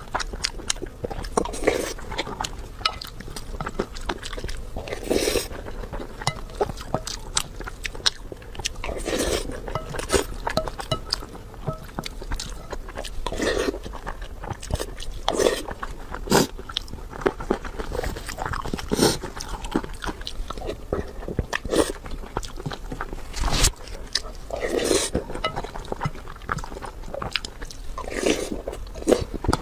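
Close-miked eating: a person biting and chewing food, with frequent small clicks and crunches and louder mouthfuls every few seconds.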